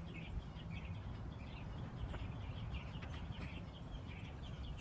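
Small birds chirping, short calls repeated many times, over a low steady outdoor rumble, with a faint click a little after two seconds in.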